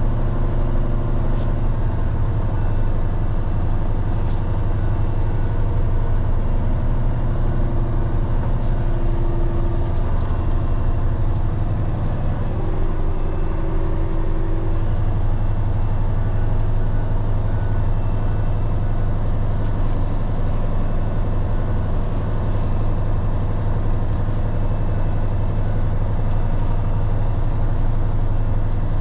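Peterbilt 389X rotator wrecker's diesel engine running steadily as the truck drives, with a slight change in the engine note about twelve seconds in.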